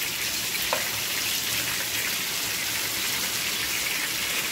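Seekh kebabs sizzling steadily as they shallow-fry in hot oil in a pan, with one short click a little under a second in.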